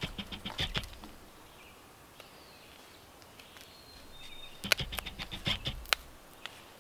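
Knife scraping and shaving the end of a wooden stick in quick short strokes, rounding it off so no sharp point is left. The strokes come in two bunches, one at the start and one about five seconds in, with faint bird chirps in the quieter stretch between.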